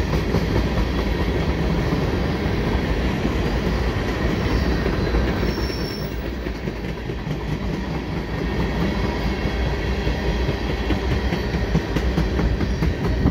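Freight train of loaded tank cars rolling past at speed: a steady rumble of steel wheels on the rails with clickety-clack over the rail joints.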